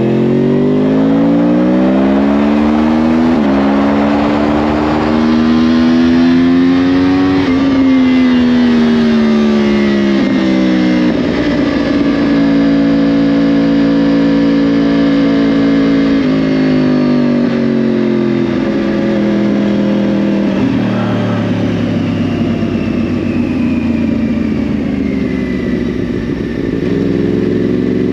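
2010 Yamaha R1's crossplane inline-four through a Yoshimura exhaust, accelerating hard with two quick upshifts, the pitch climbing and snapping down about three and a half and seven and a half seconds in. The engine then rolls off and cruises steadily, eases off again, and picks up revs near the end.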